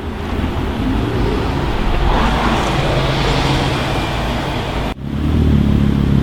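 Street traffic noise with a car driving past, swelling and fading. It cuts to a car engine running steadily about five seconds in.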